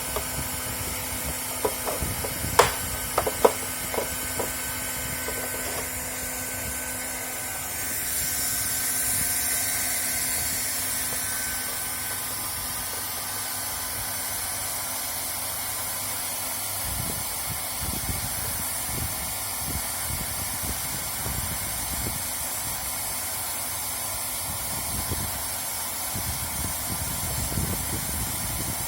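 LST1600A hand-held hot-air plastic welder blowing a steady hiss of hot air, with a few sharp clicks and knocks in the first few seconds. The hiss grows louder about eight seconds in, then eases slightly.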